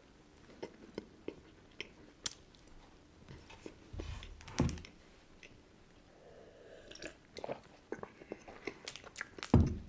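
Close-up chewing of soft, crumbly sandwich cookies with chocolate filling: wet mouth sounds with small crunches and clicks, and a louder knock near the end.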